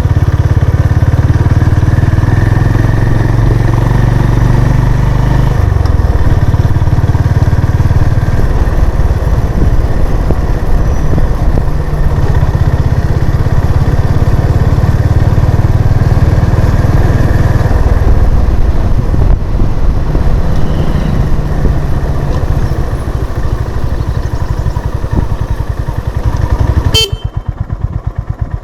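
Honda CB350 RS's air-cooled single-cylinder engine running under way. Near the end there is a sharp click and the engine drops to a slow, even idle thump.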